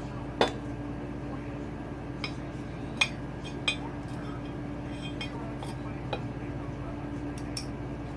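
Sharp metallic clicks and clinks, about six spread out, the loudest about half a second in, as a new cylinder is worked down over the piston and rings of a Honda CRF450R engine. A steady low hum runs underneath.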